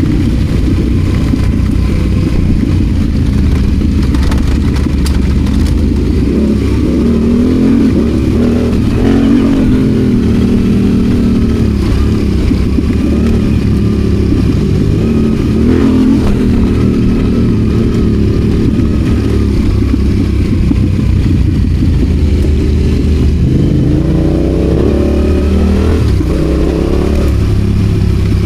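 Adventure motorcycle engine running under changing throttle while riding, its pitch repeatedly rising and falling as the rider opens and closes the throttle.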